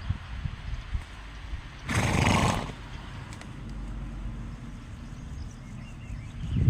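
A horse snorts once, a short noisy blow about two seconds in, over a low rumble.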